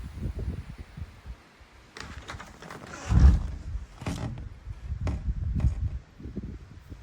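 Gusty wind buffeting the microphone in uneven low rumbles, with a few knocks and rustles, the heaviest thump about three seconds in.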